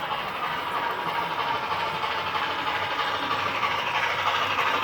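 HO scale model trains running on a layout: a steady mechanical hum and hiss with no clear beat.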